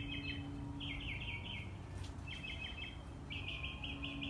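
Small bird calling: four short runs of quick, high chirps about a second apart, over a low steady background rumble.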